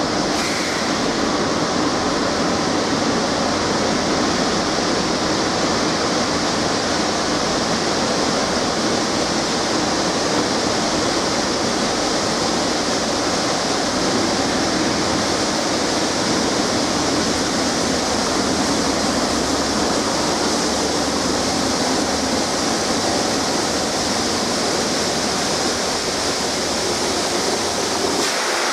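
Steam locomotive blowing off steam: a loud, steady hiss with no let-up, typical of safety valves lifting on a Bulleid light Pacific standing in the station.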